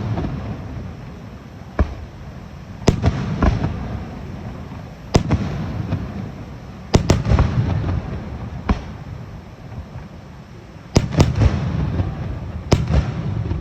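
Aerial fireworks shells bursting overhead in a run of sharp bangs, some singly and some in quick pairs, each followed by a rolling, echoing rumble.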